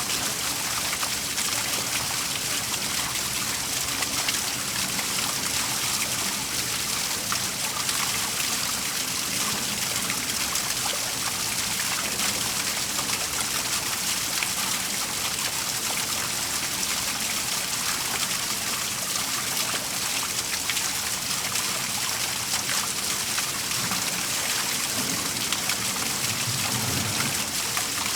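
Waterfall splashing in a steady, even rush of falling water.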